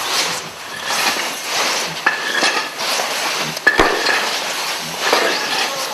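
Firefighter's breathing-apparatus regulator hissing with each breath, in rhythmic bursts about once a second, some opening with a brief high squeal, with a few sharp clicks of gear.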